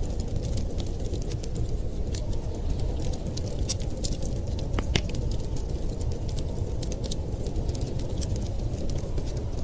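Wood fire crackling, with many small sharp pops and one louder pop about five seconds in, over a steady low rumble.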